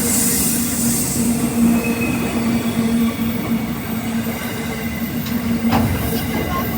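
CBH grain train running on the track, its wheels and wagons making a steady rumble with a low steady tone over it, and a sharp clank a little before the end.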